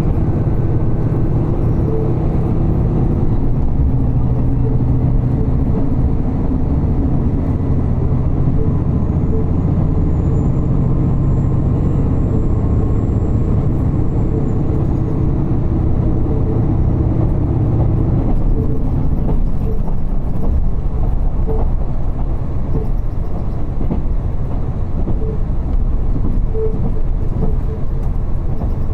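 Diesel railcar running, heard from inside the passenger cabin: a steady engine drone over wheel-on-rail rumble. About two-thirds of the way through, the engine drone drops away, leaving mostly the rumble of the wheels on the track.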